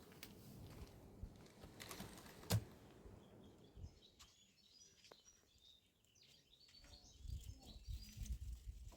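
Faint outdoor ambience: a few sharp clicks, small high chirps in the second half, and a low rumble near the end.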